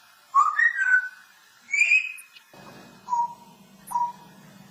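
Pet parrot whistling: a few short whistles that glide up and down, then short, even beep-like whistles about once a second. A low steady hum runs under the beeps from about halfway in.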